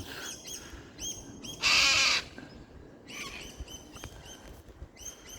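Birds calling: a string of short high chirps, with one loud harsh squawk lasting about half a second around two seconds in.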